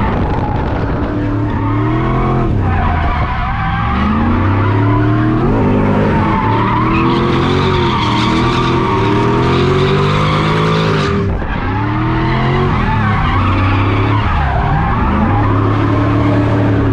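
Lexus 3UZ V8 in a Nissan S13 drift car, heard from inside the cabin, revving up and down again and again with tyres skidding through a drift, with a brief drop in revs about eleven seconds in.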